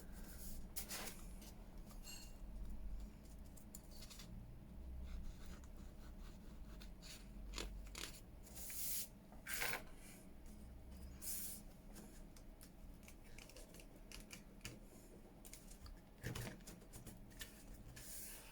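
Paper being handled on a craft table: scattered rustles, light taps and a few longer scraping sweeps.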